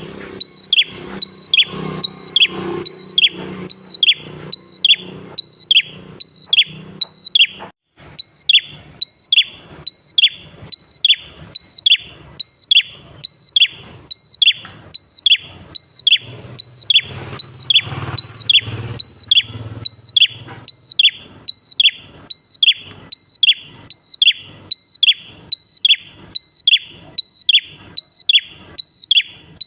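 Prinia (prenjak klawu) calling over and over, a short high note that drops steeply, repeated evenly about one and a half times a second, used as a lure call to set other prinias singing.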